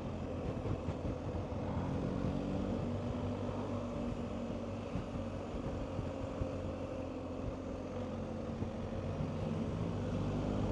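BMW R1250GS's flat-twin boxer engine running steadily while riding, its note shifting slightly in pitch, with wind rushing over the microphone.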